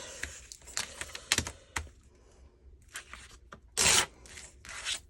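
Paper being handled at a craft table: light rustles and small clicks, then one short, louder rasp like paper tearing about four seconds in.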